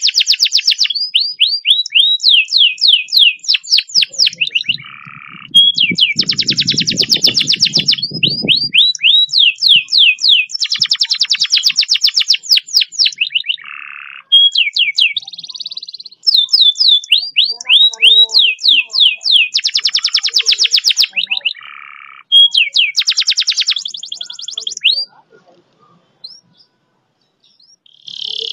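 Domestic canary singing long fast rolling trills, each a rapid string of repeated rising sweeps, changing from one tour to the next with short breaks between. The song stops about 25 seconds in, and a short phrase follows near the end. A faint low rumble comes under the song about six seconds in.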